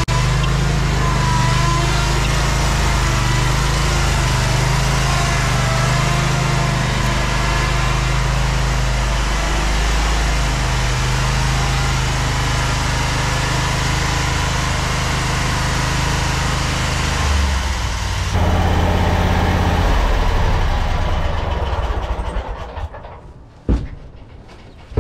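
Lawn mower engine running steadily. Its note changes about three-quarters of the way through, then it is shut off and winds down near the end, followed by a single knock.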